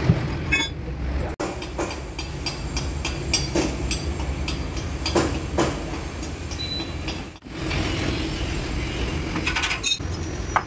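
Concrete mixer truck's diesel engine running steadily, with scattered metallic clinks and knocks over it.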